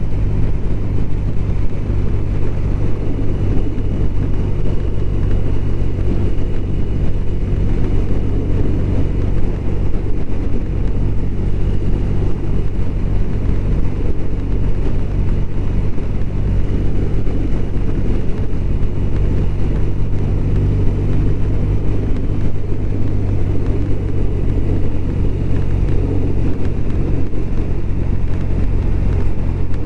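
BMW R1200RT's boxer-twin engine running at a steady cruise, its pitch holding level, under a constant rush of wind and road noise.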